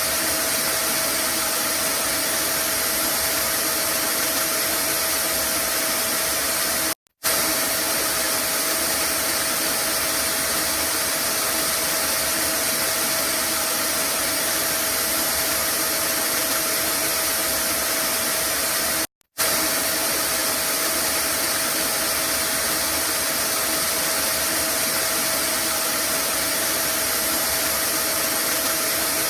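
Vacuum cleaner running steadily, a constant loud rushing noise with a faint hum and a high whine in it, used as white noise. It cuts out for a split second twice, about seven and nineteen seconds in.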